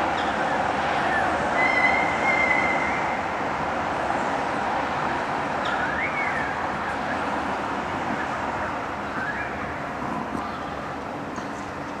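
Birds calling from a tree, unseen species: a few short rising-and-falling calls, and one held whistle about two seconds in. Under them runs a steady background rumble like distant traffic.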